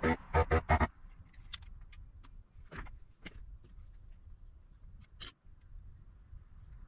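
Four sharp metallic clicks in quick succession at the start, then scattered light ticks and taps and one more sharp click about five seconds in: hand tools and parts being handled while working a heatsink off a circuit board.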